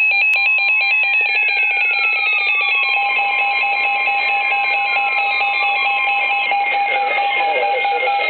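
Weather radio's alert alarm going off for a severe thunderstorm warning: loud, rapidly pulsing electronic tones with repeated falling sweeps.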